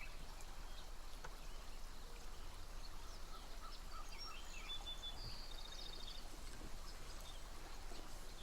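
Quiet outdoor ambience: a steady faint hiss with a few scattered bird chirps, including a quick high trill about five seconds in.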